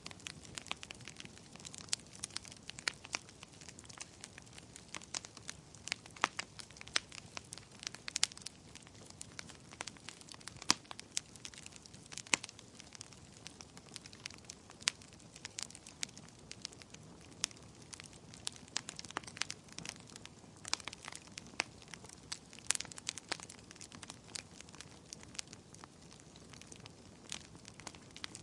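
Wood fire crackling: irregular sharp pops and snaps, several a second, some louder than others, over a faint steady hiss of burning.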